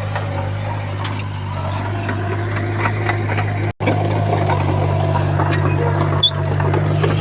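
Heavy-equipment diesel engine running steadily with a low drone, with scattered light clicks and knocks over it. The sound cuts out for an instant just past halfway, then carries on.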